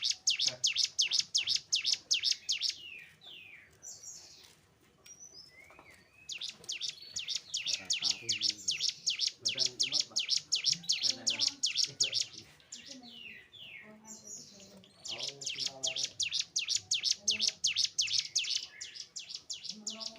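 Ciblek gunung (cigun), a prinia, singing: long runs of rapid high chip notes, about ten a second, broken twice by short pauses filled with looser whistled and warbling notes.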